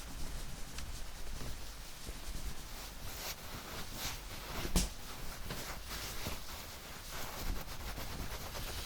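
A towel rubbing and rustling over wet hair in soft, irregular strokes, with one sharp click a little under five seconds in.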